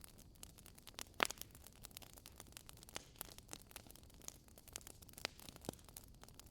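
Wood fire burning in a fireplace: irregular crackles and pops over a faint hiss, the sharpest pop just over a second in.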